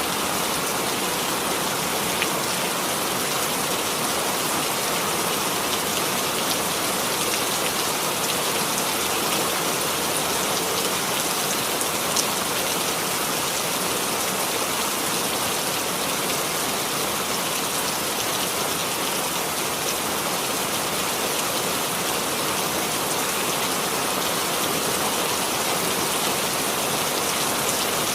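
Steady rain falling, an even hiss with a few separate drop clicks now and then.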